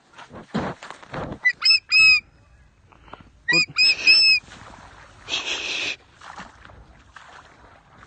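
A bird's short, high calls in two quick series of three to five notes each, with rustling of feathers and grass in between and a loud rustling burst about midway.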